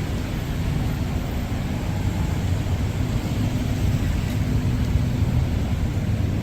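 Steady low rumble of street traffic on a busy city road.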